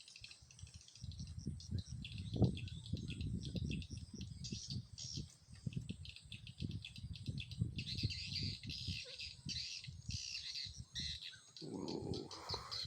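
Swiftlets twittering in rapid high chirps, thickening in the last few seconds, the swiftlet-house lure call with birds arriving. Irregular low rumbling runs underneath.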